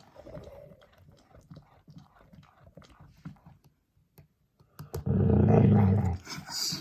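Dog growling loudly for about a second, starting about five seconds in, after a stretch of faint clicks and rustling.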